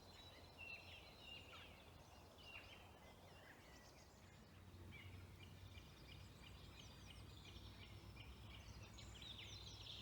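Several songbirds singing at once, faint, with many overlapping chirps, trills and whistles: a woodland evening chorus. A low rumble runs underneath.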